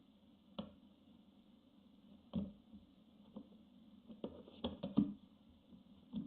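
Barn owl chicks moving about and pouncing on the nestbox floor: scattered knocks and scuffs, with a quick cluster of them about four to five seconds in.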